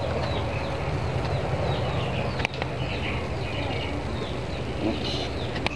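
Small birds chirping over a steady low hum, with a sharp click about two and a half seconds in and another near the end.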